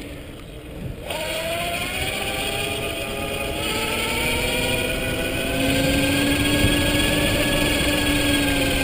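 Electric mountain bike's motor whining under power. The whine starts about a second in, rises in pitch, then holds steady and grows louder. A steady rushing noise runs beneath it.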